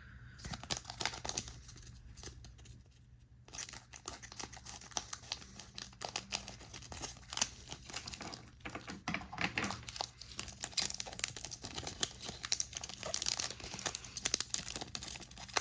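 Foil booster pack wrappers crinkling and tearing as trading card packs are opened and handled. The crackling is sparse at first with a brief lull, then becomes continuous about three seconds in.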